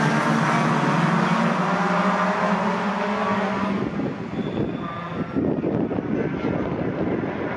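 Racing pickup truck engines running loud with a steady, slightly rising note. After about four seconds the note drops away into a rougher, noisier engine sound.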